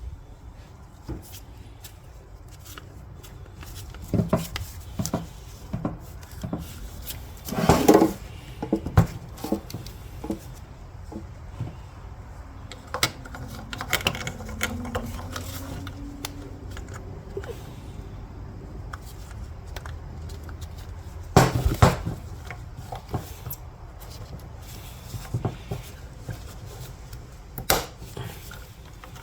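Scattered clicks and knocks of tools and parts being handled during repair work, loudest about eight seconds in and again a little past twenty-one seconds.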